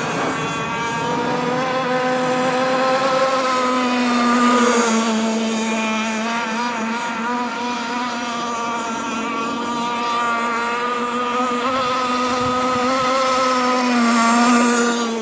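A model boat's small internal-combustion engine runs steadily at high revs, a buzzing tone whose pitch wavers slightly. It grows louder twice, around four seconds in and again near the end.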